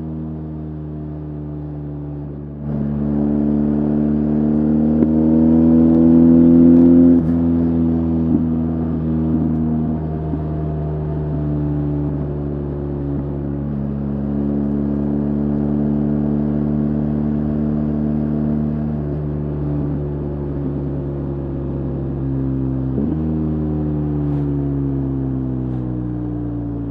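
BMW R 1250 GS Adventure's boxer-twin engine under way. The throttle opens about three seconds in and the revs climb. They dip sharply about seven seconds in and again near the end, and run fairly steady in between.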